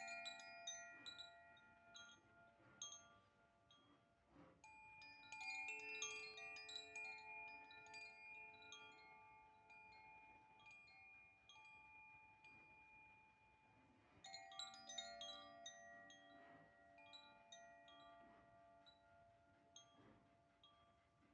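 Chimes (a Klangspiel) being struck in clusters, each set of tones ringing on and slowly fading. Fresh runs of strikes come at the start, about four and a half seconds in, and about fourteen seconds in.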